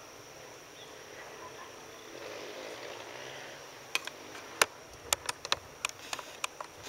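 Steady hiss of a storm, then from about four seconds in, single sharp taps of large raindrops striking a nearby surface, coming faster toward the end as the rain picks up.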